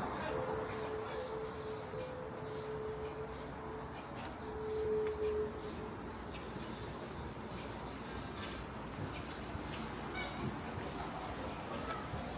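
Steady high-pitched chorus of insects trilling, with a steady hum under it for the first five seconds or so.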